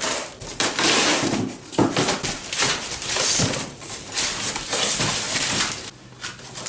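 Cardboard box and packing being handled and pulled apart during an unboxing: a run of rough scraping and rustling strokes, easing off briefly near the end.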